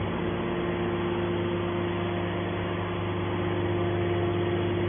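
Scrap metal baler machinery running with a steady hum of constant low tones, without clanks or impacts.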